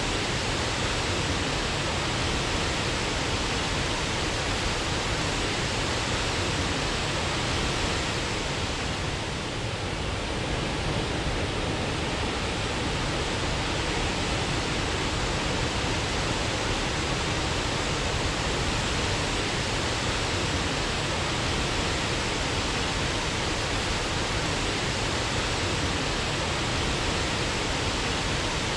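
Waterfall: a steady, dense rush of falling water, with a slight dip about nine seconds in.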